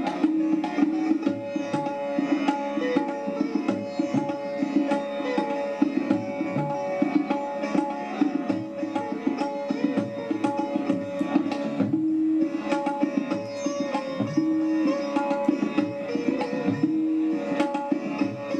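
Instrumental background music: plucked strings with held notes over hand-drum percussion, with frequent quick strokes throughout.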